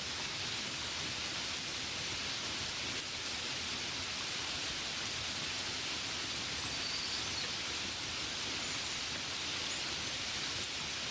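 Steady rain falling, a continuous even hiss with no single drops standing out.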